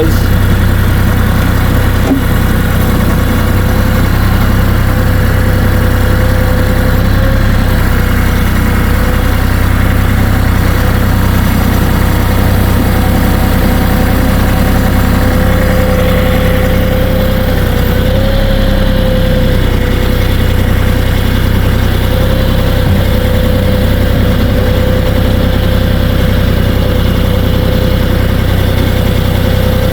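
Kioti 3520HST compact tractor's diesel engine running steadily under load, with a steady whine over the engine note.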